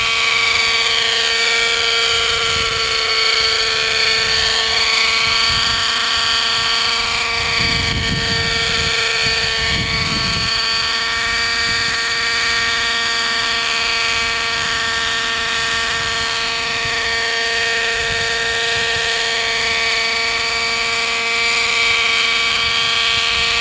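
Hirobo Sceadu model helicopter's .50-size two-stroke nitro engine and rotors running at a steady pitch in flight, with the tone gently rising and falling as the helicopter moves. The fuel mixture is off, so the engine revs lower than it should, which the owner puts down to the mixture.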